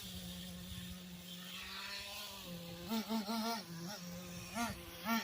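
Freshly rebuilt nitro engine of a Traxxas Slash RC truck idling steadily, then blipped in a run of short quick revs from about halfway through.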